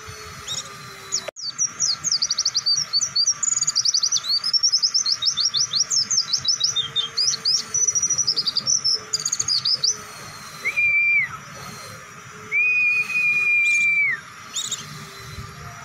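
White-eye (pleci) singing a long, fast twittering song of rapid high chirps, then two long, steady whistled notes.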